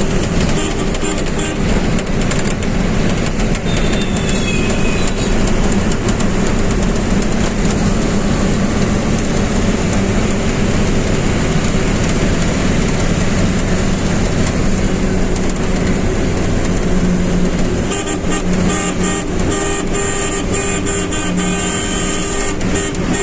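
Truck engine running steadily amid highway traffic noise. In the last few seconds a vehicle horn honks repeatedly.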